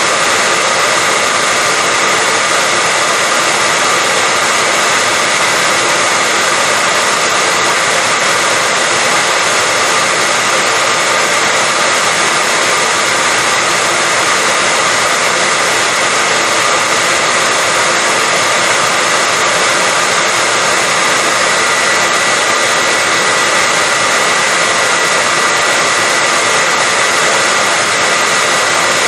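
Hair dryer running continuously: a steady, even blowing hiss with a faint whine, unchanging throughout.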